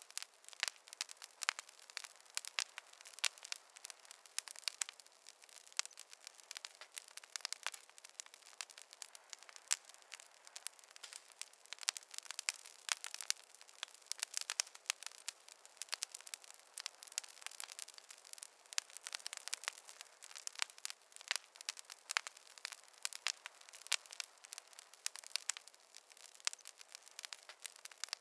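Wood fire crackling: a dense, irregular run of sharp snaps and pops from burning logs, with no low rumble beneath.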